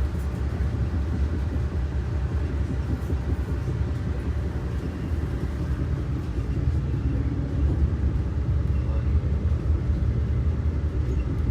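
Steady low rumble of a passenger train running on the rails, heard from inside the passenger car.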